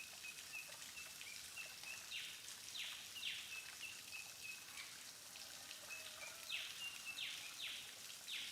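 Faint rainforest ambience with birds calling. One bird repeats a short, high whistled note, and scratchy calls that fall in pitch come in quick twos and threes, over a soft steady hiss.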